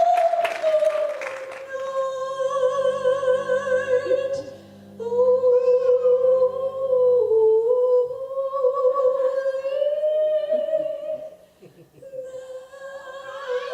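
A solo voice singing long held notes with vibrato, breaking off briefly twice. A soft low sustained accompaniment sounds under the first half.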